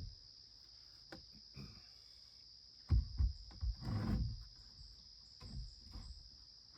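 A steady, high insect drone, like crickets, with a series of irregular low knocks and thuds over it. Around four seconds in there is a longer rustling, scraping stretch.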